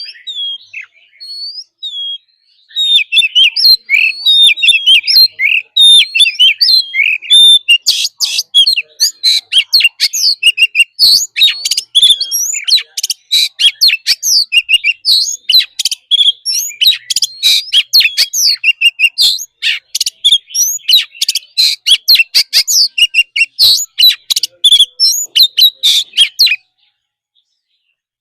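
Oriental magpie-robin singing loudly: a fast, varied run of clear whistles and harsh chattering notes. It begins a couple of seconds in, pours on without pause, and cuts off near the end.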